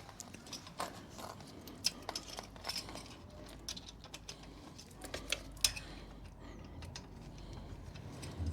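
Scattered light metallic clicks and taps as exhaust fittings, springs and a retaining clip are handled and worked into place by hand.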